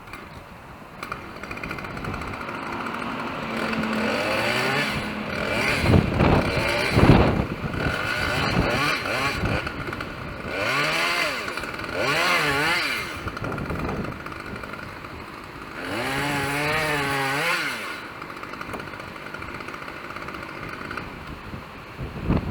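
Chainsaw revved in several bursts with the pitch wavering under load, as when cutting wood, and settling back to a lower steady running between them.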